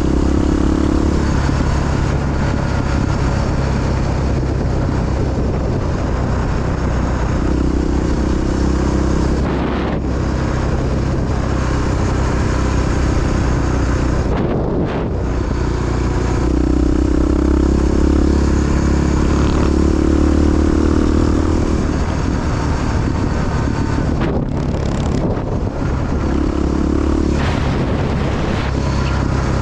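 Single-cylinder four-stroke engine of a Honda XR dual-sport motorcycle running steadily on the move, its note rising and falling with the throttle and dropping briefly a few times, as when the throttle is closed or a gear is shifted.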